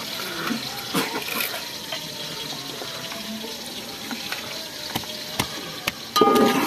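Onion, tomato and spice masala sizzling as it fries in a metal pot, with a spoon clicking against the pot now and then and a louder clatter of metal near the end.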